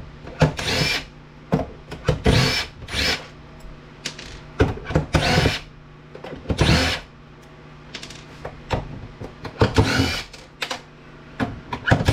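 A power drill/driver runs in about eight short bursts, its motor pitch winding up and falling away in each, as screws are driven out of a battery backup unit's case. A steady low hum runs underneath.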